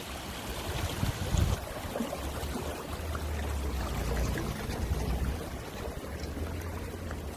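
Stream water running past stepping stones, a steady rushing noise with a low rumble underneath.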